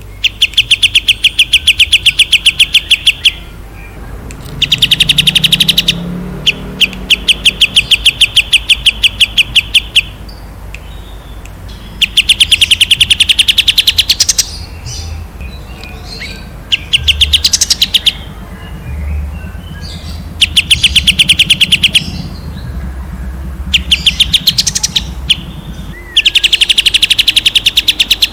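A songbird singing bursts of fast, evenly repeated notes, each burst lasting one to three seconds with short pauses between. These are the long rapid trills ('tembakan') prized in recordings played to train captive songbirds.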